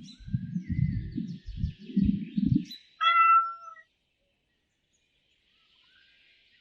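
A domestic cat gives one meow, a little falling in pitch, about three seconds in. Before it there are low, irregular rumbling sounds, and faint bird chirps sound in the background.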